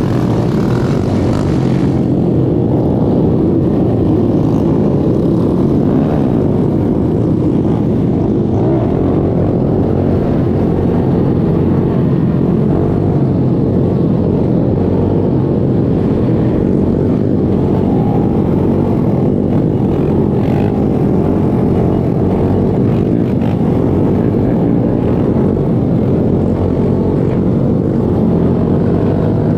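Small single-cylinder pit bike engines running with a steady, continuous low drone.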